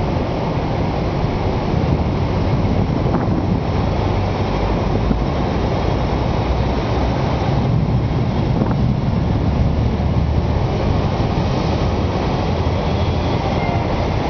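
Storm wind rushing steadily and buffeting the microphone, heaviest in the low end.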